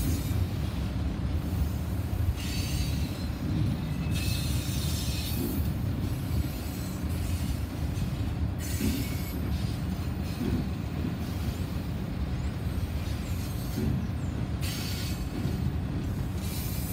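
Freight cars rolling past: a steady low rumble of wheels on rail, with high-pitched wheel squeal and hiss coming and going several times.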